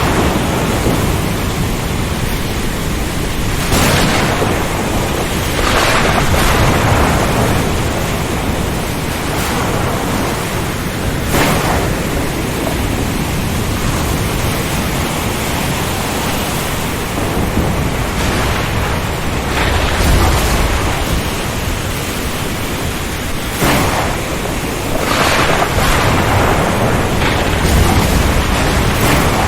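Ocean storm: a steady loud roar of wind, surf and rain, swelling every few seconds, with low thunder rumbles about two-thirds of the way in and near the end.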